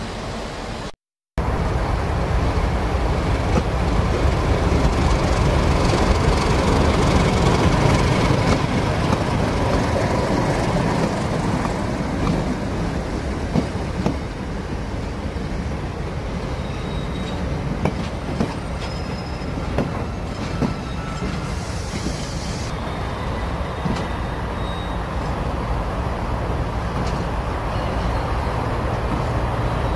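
A freight train of empty flat wagons running past with a steady rumble, its wheels clicking over the rail joints and giving a few short high squeals. The sound drops out briefly about a second in.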